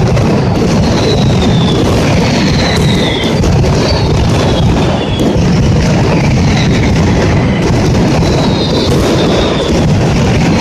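A loud mascletà firecracker barrage: an unbroken, dense rattle of bangs, with short whistles falling in pitch every second or so.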